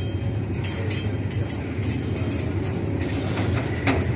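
Fuel train of rail tank wagons rolling past: a steady low rumble, with the wheels clacking over the rail joints again and again.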